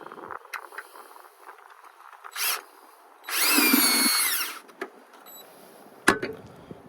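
Handheld power drill run in two goes: a short blip, then a second-long whir that spins up, holds steady and winds down. A sharp click comes near the end.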